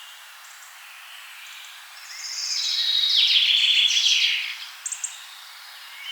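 Forest songbird singing: a loud trilled phrase with falling notes from about two seconds in to about four and a half, followed by a few sharp high ticks, over a steady hiss with fainter bird calls in the background.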